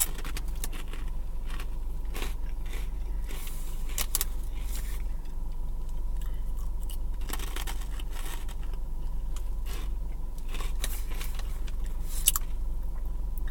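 Crunchy Cheetos being bitten and chewed: scattered, irregular crunches and crackles over a steady low hum.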